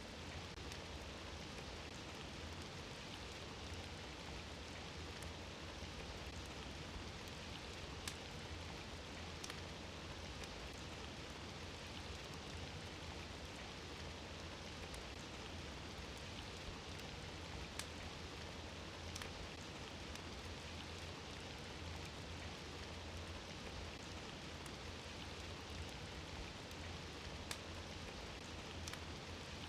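Fireplace fire crackling: a steady, even hiss over a low hum, with occasional sharp single pops every second or two.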